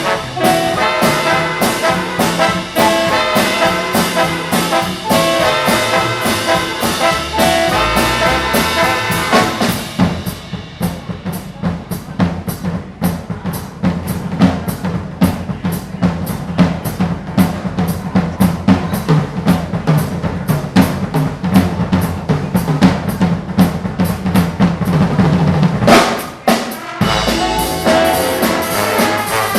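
Live big band playing swing, with trumpets and trombones over a drum kit. About ten seconds in the horns drop out, leaving drums and a low rhythm line. Near the end a loud hit brings the full band back in.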